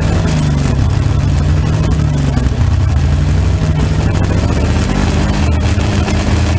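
Fuel-injected Holden 202 straight-six in a front-engine slingshot dragster idling loudly, its pitch wandering slightly up and down.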